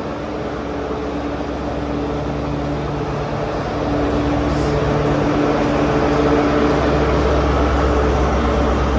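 Diesel train engine running with a steady hum, growing louder with a deeper rumble about four seconds in.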